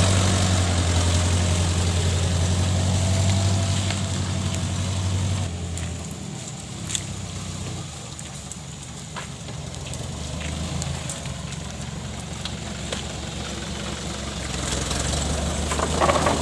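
Daihatsu Taft Hiline truck's diesel engine running with a steady low hum, strong for the first five seconds or so, then dropping to a quieter run and building again near the end.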